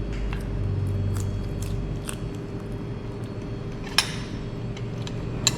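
Sounds of a meal at the table: scattered clicks of cutlery and dishes, with a sharp clink about four seconds in and another near the end, over a steady low rumble and hum.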